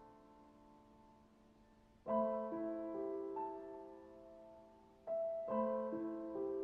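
Slow, soft piano background music: chords left to ring and fade, with a new chord struck about every three seconds and single notes added over it.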